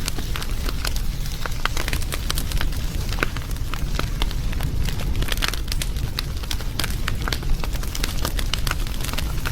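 Wood fire burning, crackling with frequent sharp irregular pops over a steady low rumble of the flames.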